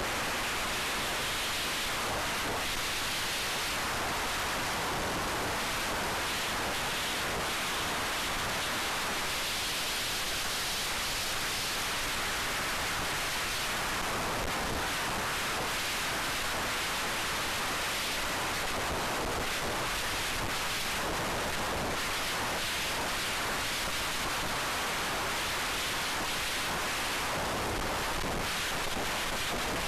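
Steady rushing wind noise on the microphone of an FPV flying wing in high wind, swelling now and then, with no clear motor tone heard.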